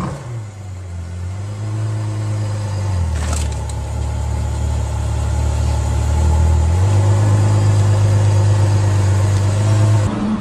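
Car engine running at a steady speed as a low drone, its pitch shifting twice, about three seconds in and again near seven seconds. A brief click sounds about three seconds in.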